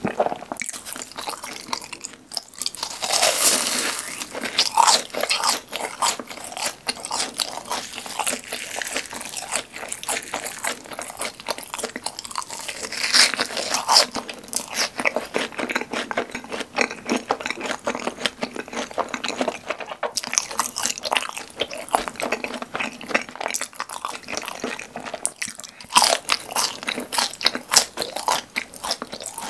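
Close-miked crunchy eating of fried cheese balls and seasoned fries: crisp bites followed by continuous crunching and chewing. The loudest crunching bursts come a few seconds in, about halfway through, and again near the end.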